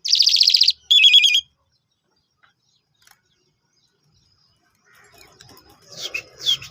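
A songbird giving two loud, rapid trills, one after the other, lasting about a second and a half in all. Fainter calls with a falling pitch start near the end.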